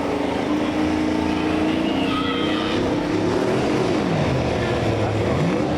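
Diesel engine of a pulling vehicle running hard, its pitch dropping about two-thirds of the way through and then climbing again near the end.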